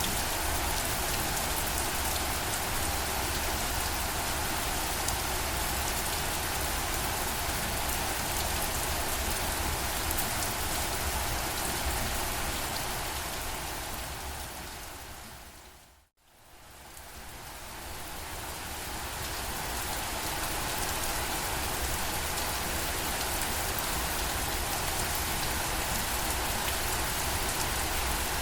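Steady rain. A little past halfway through it fades out smoothly to a moment of silence and then fades back in.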